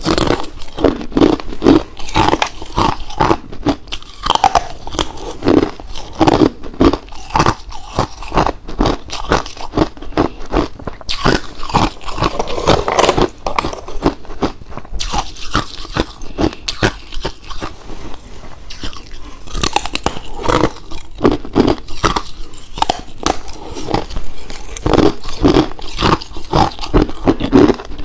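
Ice being bitten and chewed close to the microphone: loud, irregular crunching, several cracks a second, with no break.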